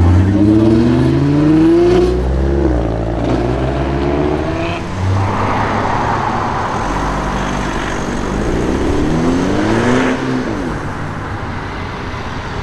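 Volkswagen Golf engine accelerating hard, its pitch climbing twice in the first few seconds. After a rougher stretch, an engine climbs again near the end and then drops away.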